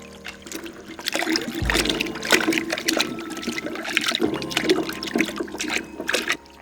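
Water running and splashing in uneven gushes, over steady background music.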